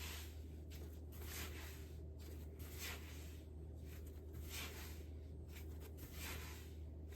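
Sourdough dough being dragged across the work surface in repeated soft swishes, about one a second, as the loaf is shaped to build surface tension. A steady low hum runs underneath.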